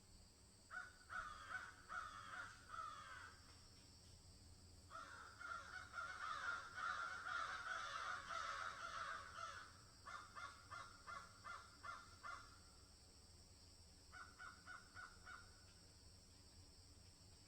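Birds calling in several runs of short, rapidly repeated notes. The longest and densest run comes in the middle, where the calls overlap. Shorter evenly paced runs of about three notes a second follow, and a brief run comes near the end.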